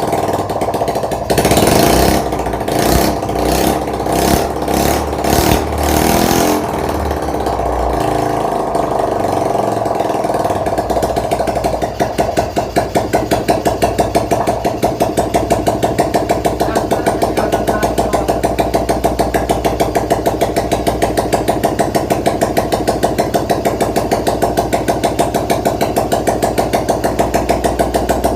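Freshly rebuilt single-cylinder four-stroke scooter engine, which had been badly seized, running after the rebuild. In the first several seconds the engine note surges in repeated bursts. From about twelve seconds in it settles into a steady run with an even, pulsing beat.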